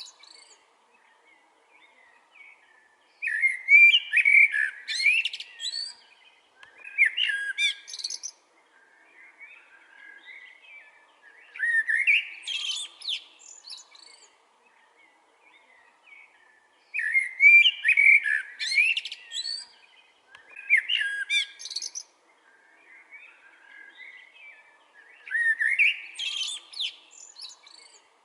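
Blackbird singing: a series of loud, fluting song phrases a few seconds apart, each ending in higher twittering, with quieter warbling between phrases.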